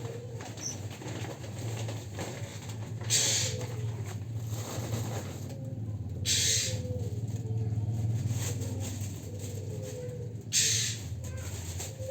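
Oriental magpie-robins at feeding: three short rasping bursts about three to four seconds apart, over a steady low hum and a faint low wavering call.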